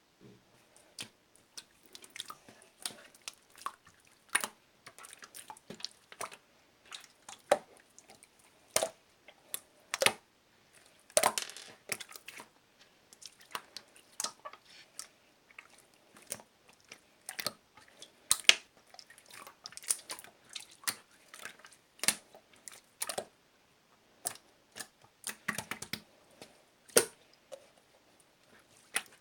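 Blue clear slime being squeezed and pressed by hand, giving irregular sharp clicking pops and small wet squelches, about one or two a second.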